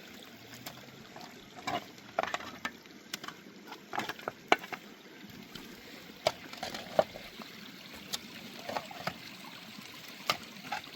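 Water splashing and trickling, with irregular sharp splashes and small knocks over a steady wash of water noise.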